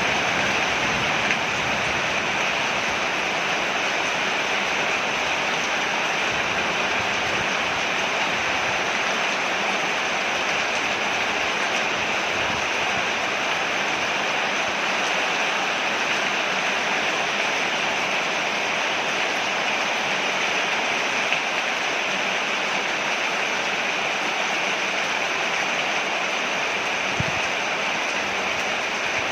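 Steady rain falling on a porch, an even, unbroken hiss.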